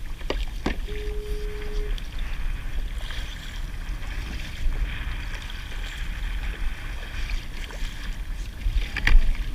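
Wind rumbling on the microphone over water splashing and sloshing around a kayak, with a few sharp knocks near the start and one louder knock near the end. A brief steady tone sounds about a second in.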